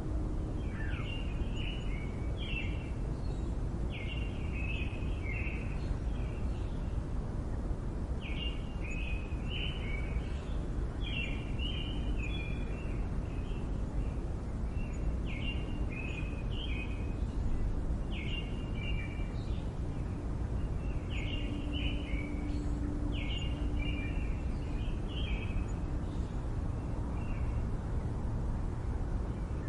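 Steady low city rumble with a songbird singing short phrases of several quick notes, repeated every few seconds.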